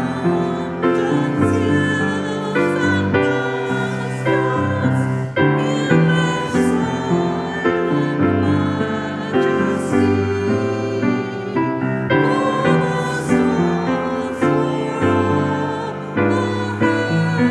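Hymn music led by piano, with a soft high cymbal wash every couple of seconds.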